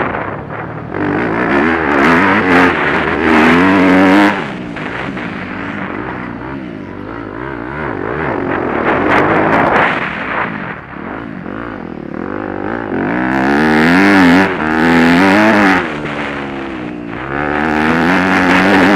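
Motocross motorcycle engine heard from a camera mounted on the bike, revving hard along the straights and backing off for the corners, its pitch rising and falling with each burst of throttle. It drops back about four seconds in and again about sixteen seconds in, then climbs again near the end.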